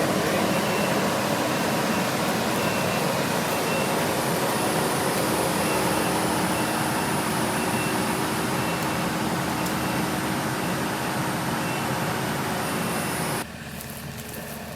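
A heavy vehicle running loudly and steadily, with a reversing beeper sounding at an even pace. The sound cuts off abruptly near the end.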